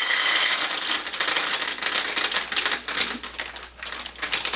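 Small milk chocolate candy eggs poured into a bowl: a rapid clatter of many small clicks, densest at first and thinning out.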